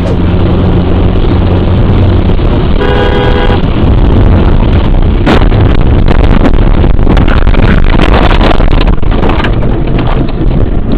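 Loud vehicle engine and road rumble picked up by a dashcam's microphone, with a car horn sounding briefly about three seconds in. From the middle on, repeated sharp knocks and rattles come through the rumble.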